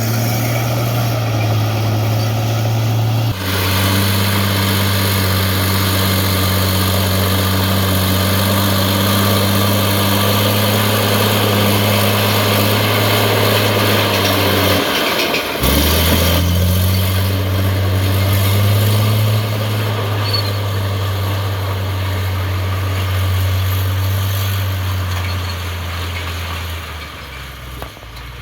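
Heavy diesel engine running steadily with a deep, even hum. The sound breaks off sharply about 3 seconds in and again about 15 seconds in, then picks up again, and it drops away a little near the end.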